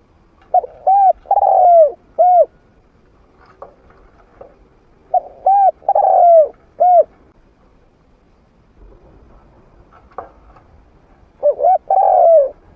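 Spotted dove cooing, a trained male's medium-pitched call: three repeated phrases, each of two short coos, a longer falling coo and a short final coo.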